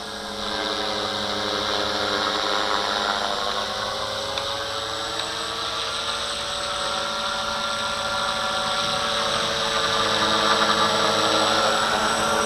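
Walkera V450D01 electric RC helicopter in flight: a steady whine from its brushless motor and spinning rotor, pitch wavering slightly as it is flown. It gets louder about half a second in and again near the end.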